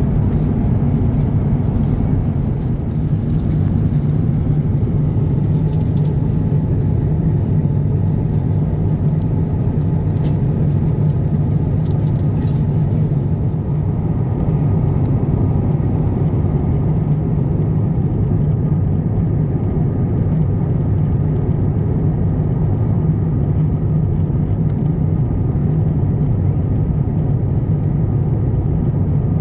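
Steady airliner cabin noise inside an Airbus A350-900 in flight: a constant low rumble of engines and airflow, with a few faint clicks in the first half.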